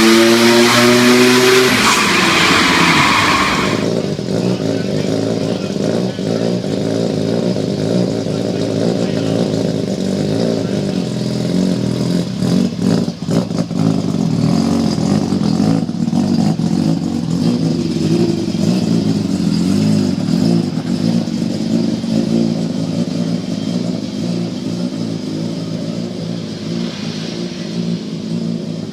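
Car engine of the Mazda RX-7 rally car revving up, its pitch rising over the first couple of seconds, then running at a steadier, wavering pitch as the car is driven.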